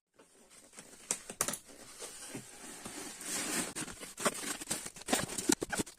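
Packaging being opened and handled by hand: a run of clicks and knocks, with rustling and tearing.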